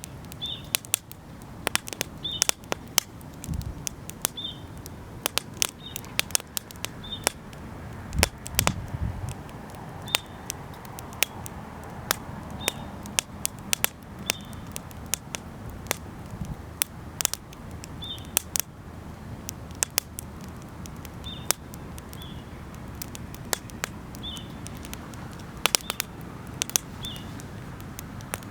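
Wood campfire crackling, with many irregular sharp snaps and pops over a low steady rumble. A short high chirp recurs every second or two in the background.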